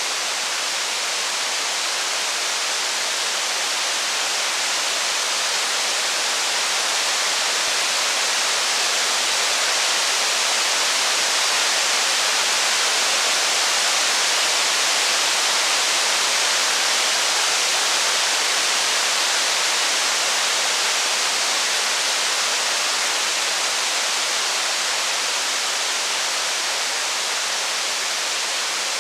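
Steady, even hiss of heavy rain, swelling slightly in the middle and easing off a little toward the end.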